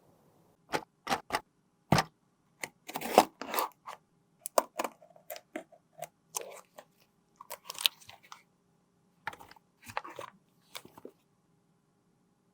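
Close-miked handling of makeup and tools: a string of separate sharp clicks, taps and short crunchy scrapes, irregularly spaced, stopping about a second and a half before the end.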